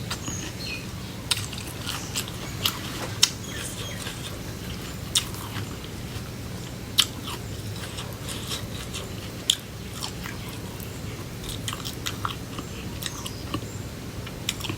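Close-miked eating: crunchy cucumber salad being bitten and chewed, with sharp, irregular crunches every second or two.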